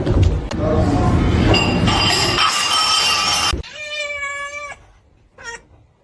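A loud noisy commotion for the first three and a half seconds, cut off abruptly, then a cat meowing: one long steady meow about four seconds in and a short one near the end.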